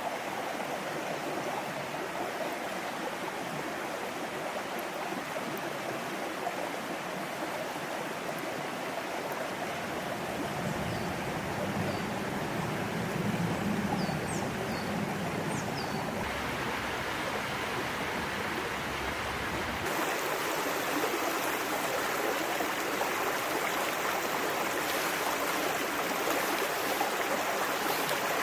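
A small mountain stream babbling steadily over rocks, with its tone shifting twice. A few faint, short high chirps come near the middle.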